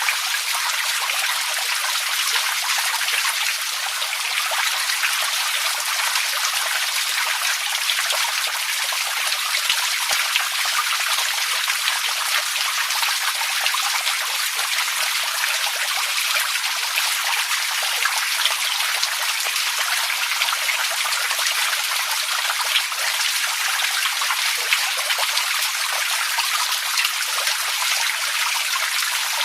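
Water trickling and splashing steadily, a dense, even patter with no pauses.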